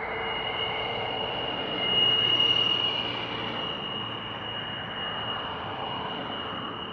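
Freight train wagons rolling past on the rails, their wheels giving a steady high-pitched squeal over the running noise, loudest about two seconds in.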